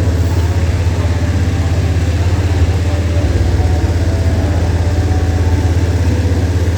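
Motorcycle engine running steadily on a wall-of-death ride, with fast even firing pulses and no revving up or down.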